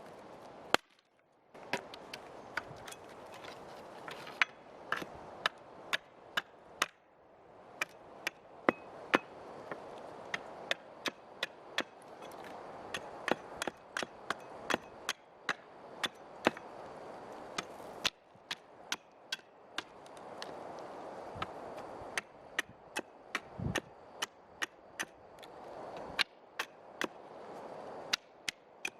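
Wood being chopped with a long series of sharp blows, irregular at about one to two a second, with short pauses between runs.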